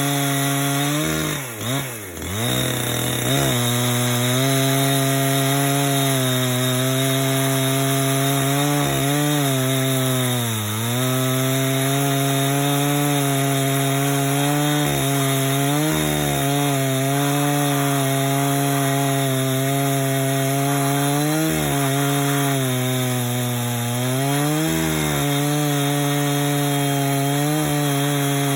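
Chainsaw fitted with a mobile milling attachment running at high revs while ripping a log lengthwise into a plank. The engine note holds steady under load, with a deep drop in pitch and recovery about two seconds in and a few brief sags later on.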